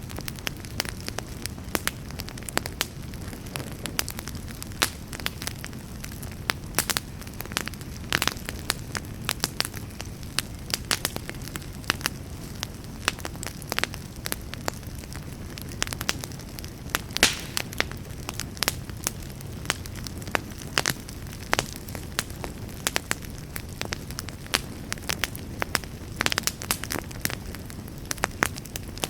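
Wood fire burning in a fireplace, crackling and popping at irregular moments over a steady low rumble.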